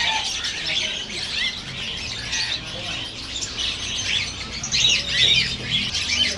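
Many caged songbirds chirping and twittering at once: a dense chorus of quick, overlapping high calls.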